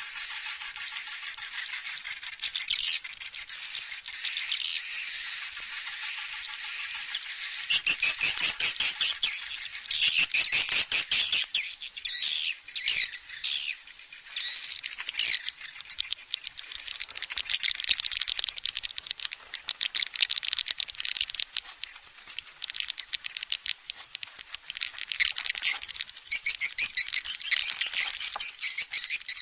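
Recorded swiftlet lure calls: dense twittering with rapid, rattling chatter trills. The chatter grows louder in close bursts about a third of the way in and again near the end. This is the calling and roosting sound played to draw swiftlets in to nest.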